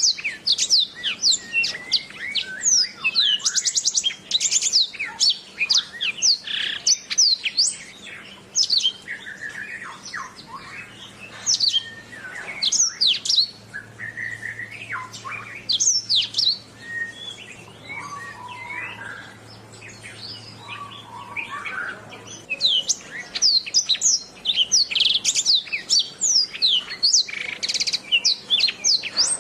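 Domestic canary singing: a rapid, continuous run of high chirps, trills and quick sweeping whistles. The song thins to sparser, lower notes in the middle and turns dense again toward the end.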